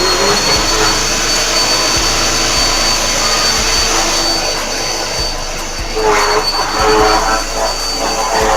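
Vacuum cleaner running just after being switched on: a steady high motor whine over loud rushing air. From about six seconds in, a second sound with a wavering pitch joins it.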